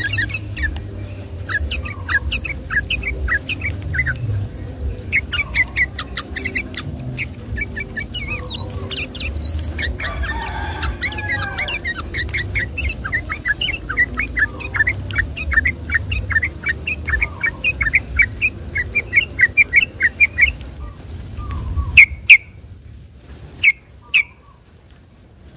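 Yellow-vented bulbul (trucukan) singing a fast string of short chirping notes, quickening into a long rapid run before it stops. Near the end come a few sharp, loud clicks, and a low rumble sits under the song until then.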